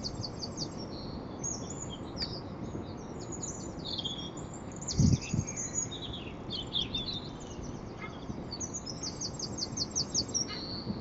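Several small birds chirping and trilling, with quick runs of high chirps one after another. A brief low thump about five seconds in.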